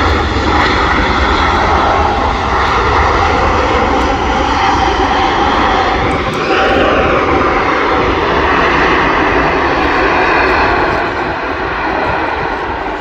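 Jet engines of an Airbus A380 airliner running loud as it lands and passes by. A tone rises and falls about halfway through, and the roar eases off near the end.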